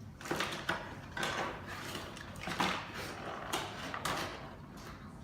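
Rustling and light knocks of toy packaging and plastic play-food pieces being rummaged through by hand, in a string of irregular scuffs.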